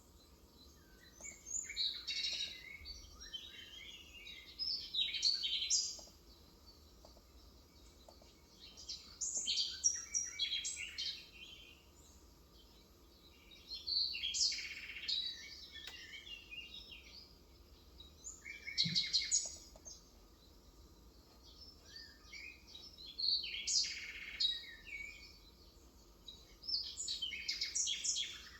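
Birds singing: bursts of high-pitched chirping and warbling phrases, each a second or two long, coming about every four to five seconds.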